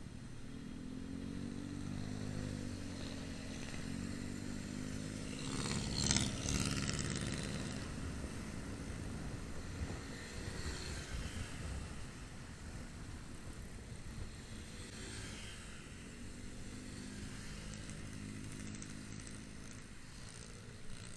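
Motorcycle engine running while riding in traffic, its pitch rising and falling as it speeds up and slows. About six seconds in there is a louder, brief rush of noise.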